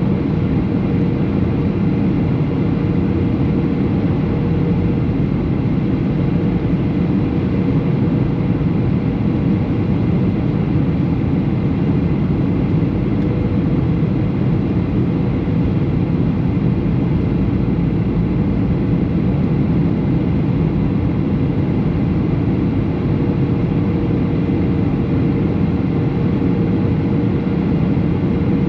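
Boeing 737 in flight heard from inside the cabin: the steady rush of airflow and engine drone, with a faint steady hum under it.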